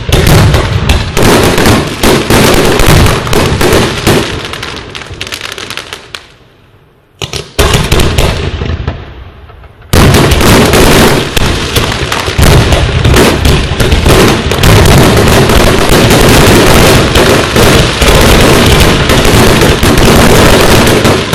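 Fireworks display: a rapid barrage of bangs and crackling shells that dies down about six seconds in, one more bang, then from about ten seconds in a dense, unbroken barrage.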